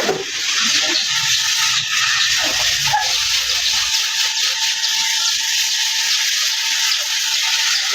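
Water spraying steadily onto a motorbike during washing: an even, continuous hiss.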